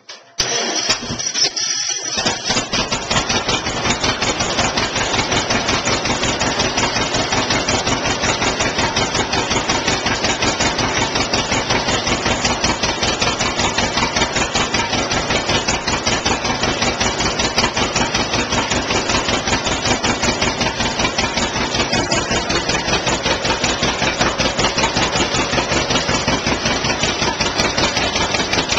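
A 1954 John Deere 60's two-cylinder engine, started cold in freezing weather, catches in the first second or two and settles into a steady, even run of firing pulses.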